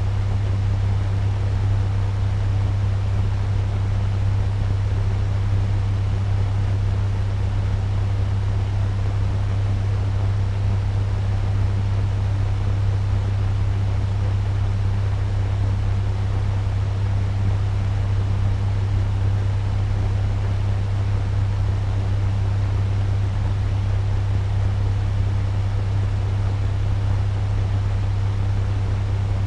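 Turbo fan running steadily at medium speed: an even rush of air over a strong, deep, unchanging hum.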